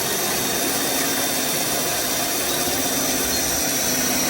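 Steady mechanical running noise of a small motor, with a faint even hum.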